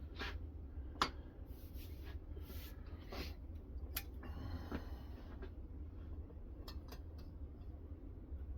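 Knife edge being drawn over a balsa-wood strop loaded with 1.5 micron CBN: a run of about seven short scraping strokes, a little under a second apart, over the first five seconds, then a few faint clicks.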